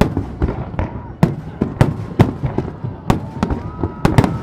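Aerial fireworks shells bursting in quick succession, about a dozen sharp bangs at a rate of several a second, each followed by a low rumble.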